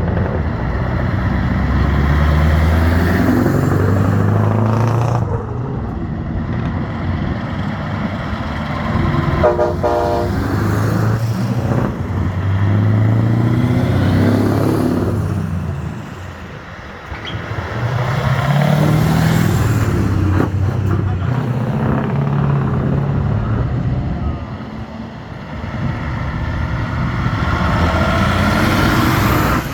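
Old trucks driving past one after another, each engine swelling and fading as it passes. A short horn toot about ten seconds in.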